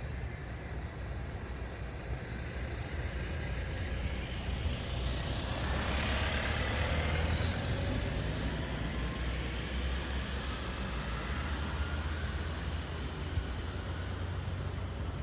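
Road traffic at night: a steady low rumble, with one vehicle passing close about six seconds in, its tyre and engine noise swelling and then fading with a falling pitch.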